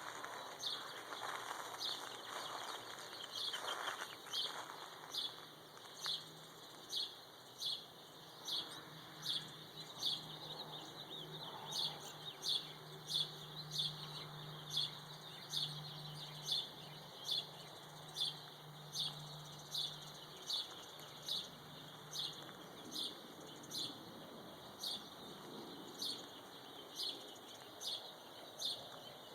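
Birds calling at dawn: one bird repeats a sharp, high, falling note about once a second, over fainter chirping from other birds. A faint low hum runs underneath through the middle.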